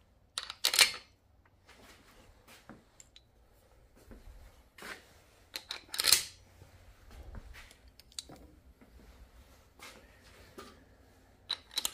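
Small steel parts, a nut, washer and stud, clicking and clinking as they are handled and fitted together, a few sharp clicks spread over quiet stretches of light rattling.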